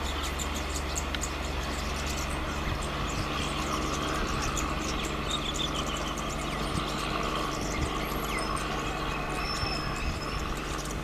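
Steady low rumble of a train running, with a few bird chirps over it.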